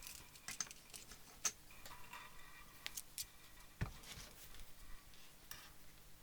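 Faint, scattered small clicks and taps of tools and parts being handled at a workbench, with one louder knock about four seconds in.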